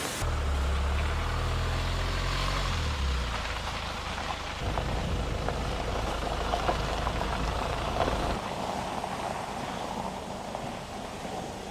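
A car running in heavy rain: a steady low engine and road rumble with rain pattering over it. The rumble drops away about eight seconds in, leaving the rain.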